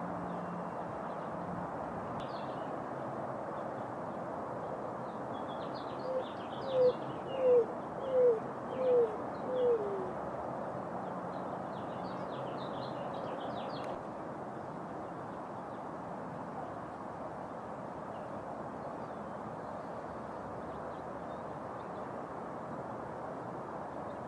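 Greater roadrunner cooing: a series of six short, low coos, each falling in pitch, the last one dropping lowest, roughly a third of the way in. Small birds chirp faintly over a steady background hiss.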